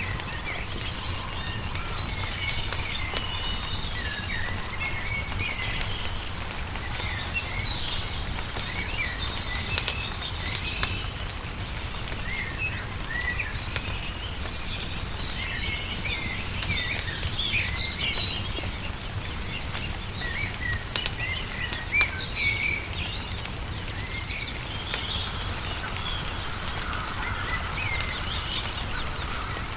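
Small songbirds chirping and twittering continuously, over a wood fire crackling with scattered sharp pops, the loudest about twenty-two seconds in. A steady low rumble runs underneath.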